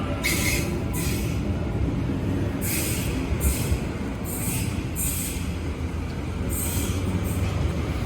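Sydney Trains electric suburban train moving along the platform: a steady low rumble with a string of short, high hissing bursts about once a second.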